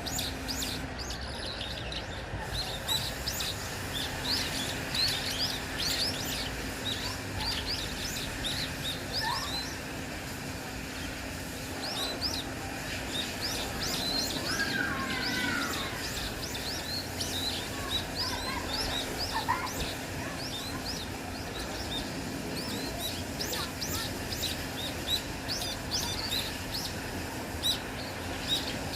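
A dense morning chorus of small birds chirping, with many short high chirps overlapping throughout and a few lower calls about halfway through. A faint steady low hum runs underneath.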